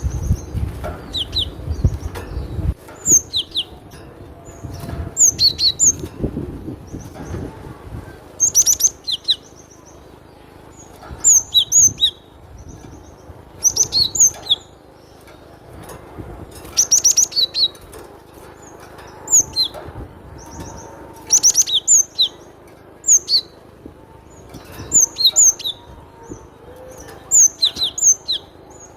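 Cinereous tit (glatik batu) singing: short, sharp phrases of a few high clear notes, repeated every second or two with brief pauses between. A low rumble sits under the first few seconds.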